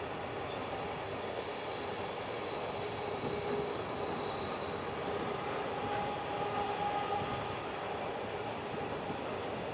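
Empty iron-ore wagons of a very long freight train rolling past, with a steady rumble of wheels on rail. A high-pitched wheel squeal rings over it and fades out about halfway through, followed by a shorter, lower squeal.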